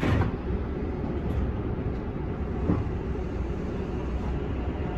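Hankyu Kobe Line commuter train heard from inside its front cab, moving slowly: a steady low rumble with a sharp knock at the start and a couple of lighter clicks.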